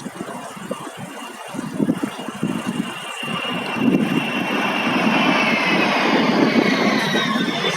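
Large military aircraft flying over, its engine noise swelling from about halfway through, with a high whine that slides down in pitch near the end as it passes.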